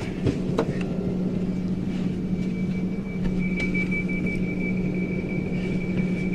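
Southern Class 377 electric multiple unit running, heard from inside the carriage: a steady low hum, joined about three seconds in by a thin, high, steady whine.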